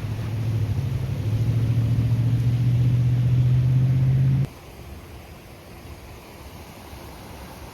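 A motor vehicle's engine running close by: a steady low hum that grows louder and rises slightly in pitch, then cuts off suddenly about four and a half seconds in, leaving a faint steady rushing.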